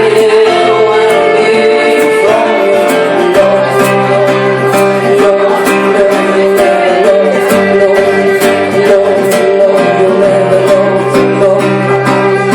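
Live acoustic band playing: strummed acoustic guitar in a steady rhythm, with held melody notes from violin and a woman's voice.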